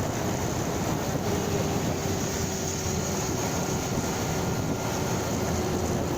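Motorcycle engine and wind noise while riding at a steady speed, a dense even rumble with a faint steady drone.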